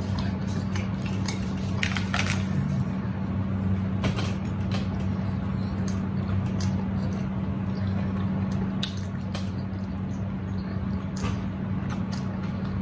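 Close-miked chewing and mouth clicks from people eating large sub sandwiches, short sharp smacks scattered through, over a steady low hum.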